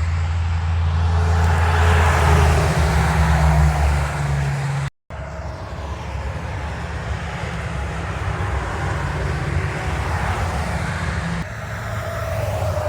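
Semi-truck diesel engines droning low and steady with highway traffic noise, broken by a brief gap about five seconds in.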